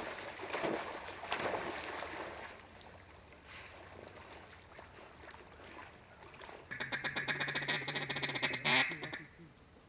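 Duck quacking, mallard-style: a fast run of quacks lasting about two seconds, starting well past the middle and cutting off sharply.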